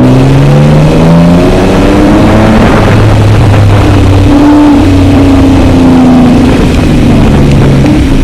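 Turbocharged Toyota Tacoma pickup's engine under hard acceleration, very loud, its pitch climbing and then dropping back a few times as it shifts up through the gears.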